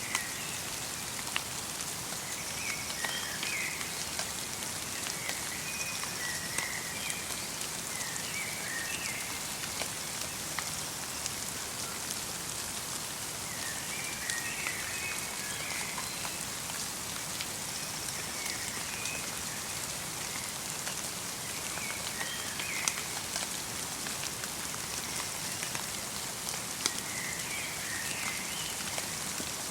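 Light rain falling as a steady hiss with scattered drips, while a small bird twitters in short clusters of high chirps every few seconds.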